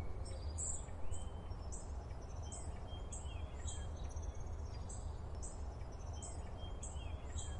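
Forest birdsong: a steady run of short, very high chirps about every half second, with a few lower whistles sliding downward, over a steady low rumble.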